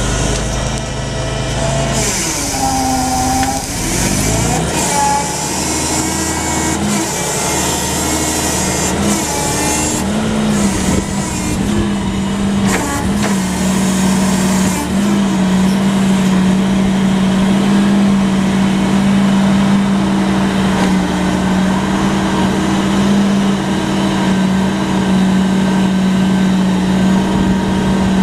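Cat GLP40 LP-gas forklift running: the engine note rises and falls for the first few seconds, then holds a strong steady tone, with a few knocks about ten to thirteen seconds in.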